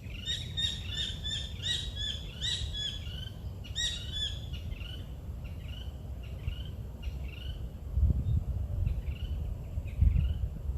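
Birds calling in a quick series of short repeated chirps, many at first and thinning out after a few seconds, over a steady low rumble that swells twice near the end.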